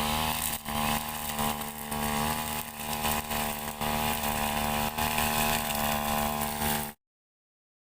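Brush cutter's small engine running steadily under test after a service, then cutting off abruptly about seven seconds in.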